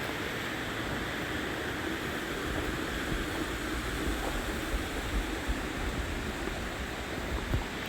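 Steady rush of flowing water from a mountain stream or waterfall, with uneven low rumbles of wind on the microphone.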